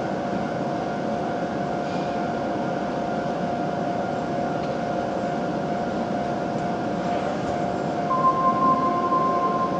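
Steady hum of a W7 series Shinkansen standing at the platform, its onboard equipment giving a constant tone over the noise. About eight seconds in, a steady higher tone starts.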